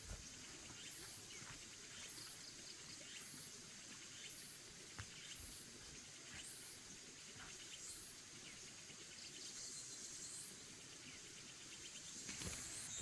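Insects chirping outdoors in high, even pulses about once a second, over faint rural background noise.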